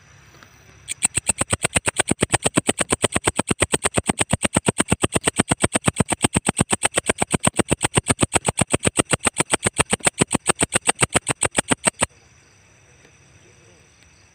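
Walang ecek insect calling: a fast, even train of loud, high-pitched chirps, about six a second, starting abruptly about a second in and cutting off suddenly near the end.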